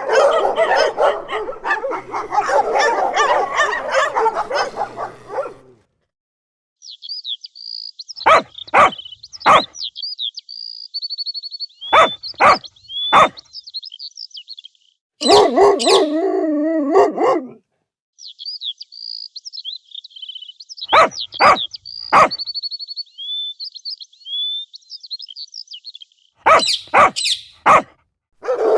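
A dog barking in short groups of two or three sharp barks, with high chirping between the groups. About halfway through there is a longer wavering cry, and the opening seconds are a dense run of barking.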